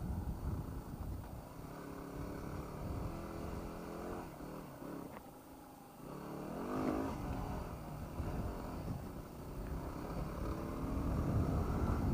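Yamaha WR250R dual-sport motorcycle's single-cylinder engine running under way, its note rising and falling with the throttle over a low wind rumble; it eases off and goes quieter around the middle, then climbs again.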